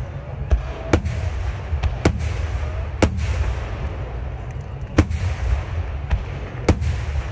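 Aerial firework shells bursting overhead in quick succession: about five sharp booms a second or two apart, with a few fainter reports between them, over a steady low rumble.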